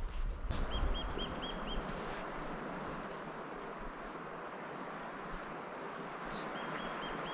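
A small bird calls a quick run of about five short, identical high notes about a second in, and again near the end, over a steady outdoor hiss.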